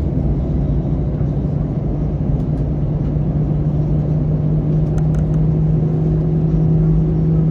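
Airbus A321 jet engines running, heard inside the passenger cabin: a steady low drone with a hum that rises slightly and then holds steady. A few faint ticks come about five seconds in.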